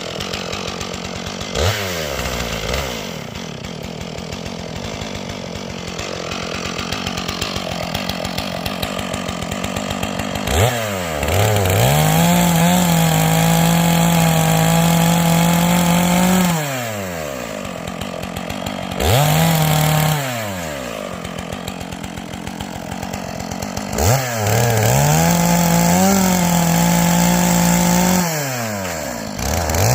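Two-stroke chainsaw idling and then revved to full throttle three times, held for about five seconds the first and last times and only briefly in between, dropping back to idle after each, as it cuts through wood.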